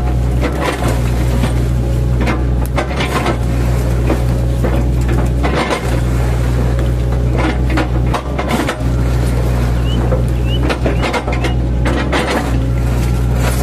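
Mini excavator's diesel engine running steadily under load, with irregular knocks and cracks as its bucket chops up felled oil palm trunks.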